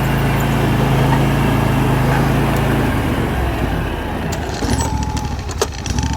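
John Deere LT180 riding mower's engine running steadily, then shut off about halfway through and winding down, followed by a few sharp clicks.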